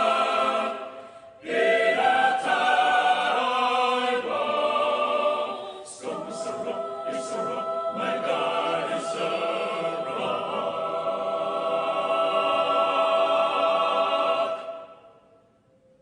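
A cappella choir singing without words, in sustained chords, ending on a long held chord that fades out near the end.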